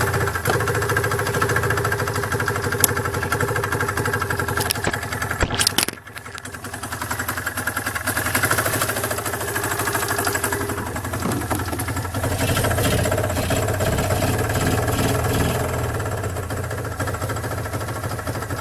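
Twin-cylinder snowmobile engine running roughly just after starting, faltering and nearly dying about six seconds in, then picking back up. One cylinder has a hole in its piston, so it doesn't sound too good.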